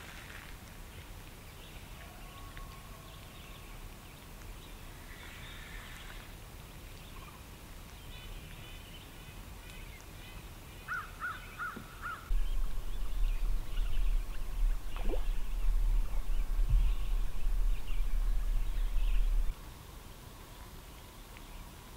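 Faint bird calls, including a quick run of four short calls about eleven seconds in. A loud low rumble starts just after them, lasts about seven seconds and cuts off suddenly.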